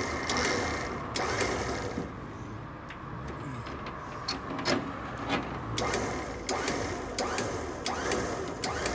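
A Superwinch vehicle winch running, winding its cable back onto the drum, with a steady low hum and irregular clicks and knocks as the cable spools on.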